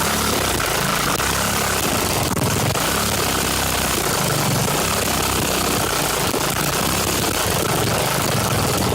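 Briggs & Stratton 3.5 hp single-cylinder small engine running steadily. Its oil has been dosed with automatic transmission fluid and WD-40, and the owner says it misfires a lot and is on its last leg.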